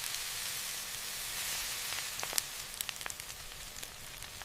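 Food sizzling in hot oil: a steady hiss with scattered crackles and pops, which come more often in the second half.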